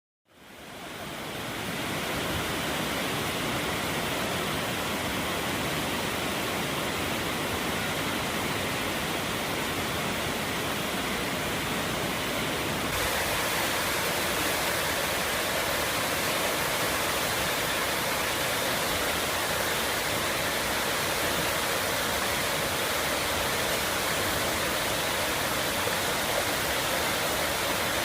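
Waterfall: a steady rush of falling water that fades in over the first couple of seconds and turns slightly brighter about halfway through.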